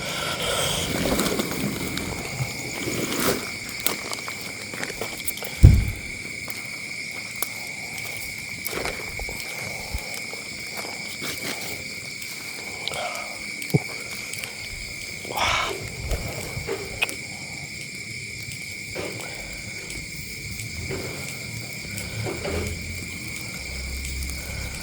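Steady high chirring, like night insects, runs throughout, with scattered small knocks and clicks and one louder thump about six seconds in.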